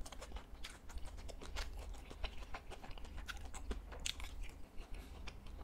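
A person chewing crunchy food close to the microphone: irregular crisp crunches and clicks in quick succession.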